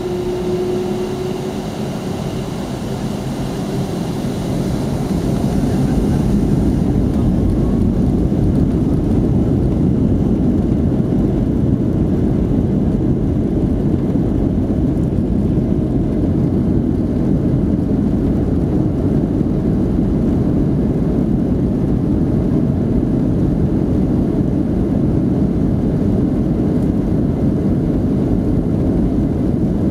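Boeing 757-200 jet engines heard from the cabin, spooling up over the first several seconds, then a steady loud roar as they run at high thrust, typical of the take-off run.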